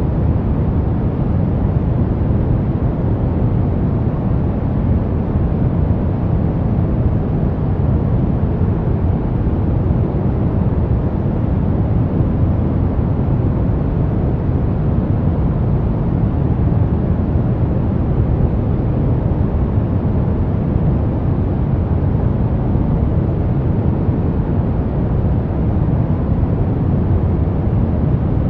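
Brown noise: a steady, unchanging deep rumbling hiss with most of its energy in the bass, thinning out toward the treble.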